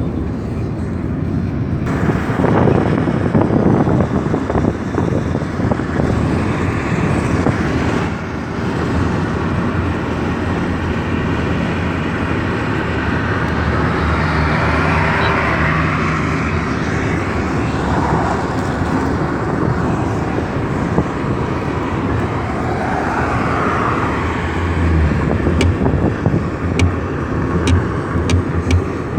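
Road and engine noise inside the cabin of a moving Lada Kalina 2 wagon: a steady, dense rumble of tyres and engine, with a few light clicks near the end.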